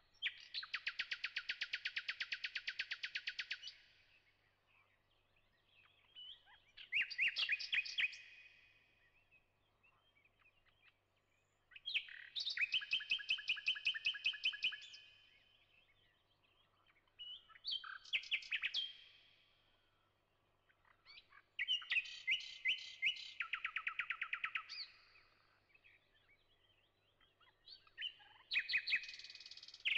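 Songbird singing in phrases of rapid, evenly repeated high trilled notes, each phrase lasting a couple of seconds, about six phrases with short pauses between.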